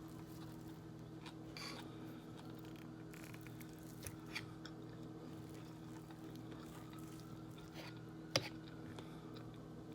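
Quiet chewing of a spinach salad, with a few faint clicks and one sharp click about eight seconds in, over a steady low hum.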